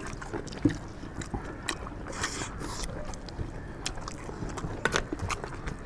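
People eating chicken curry and rice: scattered chewing, biting and mouth clicks, with small scrapes of food and plates.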